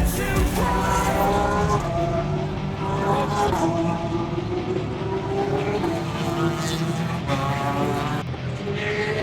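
Racing car engines running hard on the circuit, their pitch climbing and dropping back a few times.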